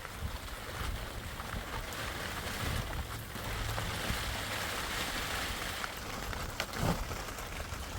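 Steady rain falling, with wind rumbling against the microphone; a couple of short knocks about seven seconds in.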